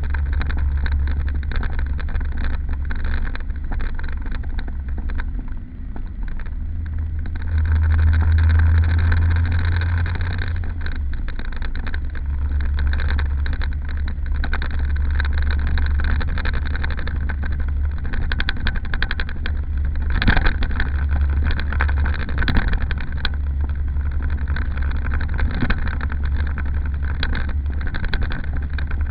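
Small car engine running with a steady low drone, swelling louder for a few seconds about eight seconds in, as if revved or under more load. A brief knock comes about twenty seconds in.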